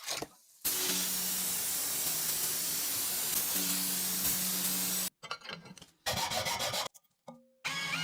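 A power abrasive tool sanding a steel cleaver blade: a loud, even rasping hiss with a low motor hum underneath. It runs for several seconds, then breaks into shorter stretches that start and stop abruptly.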